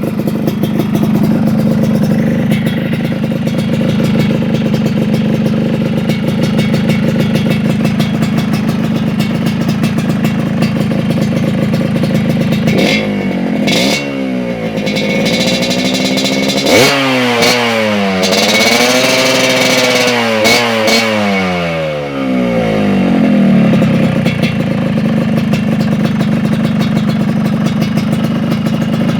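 Motorcycle engine running through an aftermarket racing exhaust with a chrome and blue silencer, idling steadily. Past the middle it is revved twice: a short blip, then a longer rev that holds briefly and falls back to idle.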